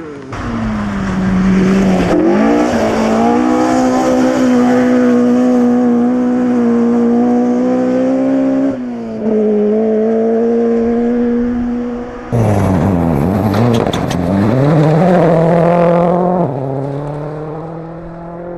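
Rally car engines at high revs on a gravel stage, the note climbing slowly and holding loud, with abrupt changes where one car's clip gives way to another. One engine drops in pitch and climbs again about two thirds of the way through.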